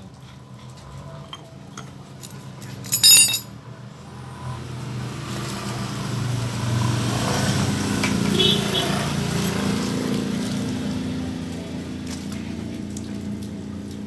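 Small metal carburetor parts and tools clinking during reassembly, with a short loud metallic clatter about three seconds in. Then a passing vehicle engine swells and fades away.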